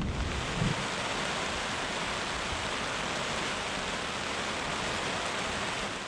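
Heavy storm rain pelting the fly of an REI Kingdom 6 tent: a steady, dense hiss that fades near the end.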